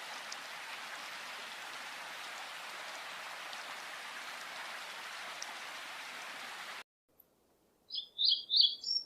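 A steady, even hiss of rain or running water, which cuts off abruptly about seven seconds in. After a second of silence, a bird starts chirping in quick, high, repeated notes.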